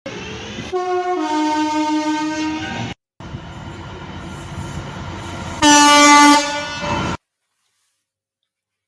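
Two separate train horn soundings from passing trains. The first steps from a higher to a lower note; the second is a shorter, louder single note. Each is cut off abruptly.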